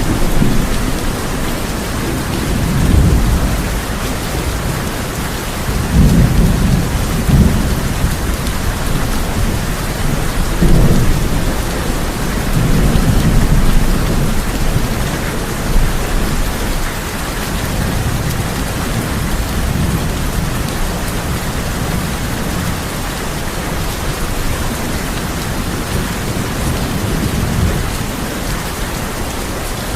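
Heavy rain drumming steadily on a tin roof, with thunder rumbling low several times through it; the biggest rolls come about six to eight seconds in and again around eleven seconds.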